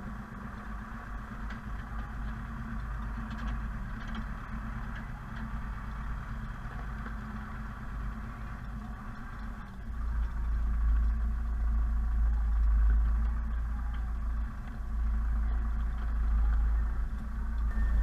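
Zetor Proxima 80 tractor's four-cylinder diesel engine running steadily; about ten seconds in a deep low rumble swells and the sound grows louder.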